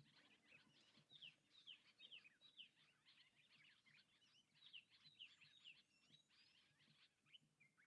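Faint chirping of small birds: many quick, short downward-sweeping notes in rapid succession, thinning out near the end.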